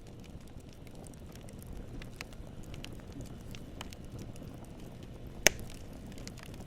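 Campfire burning with a soft low rustle of flames and scattered crackles of burning wood, with one sharp loud pop about five and a half seconds in.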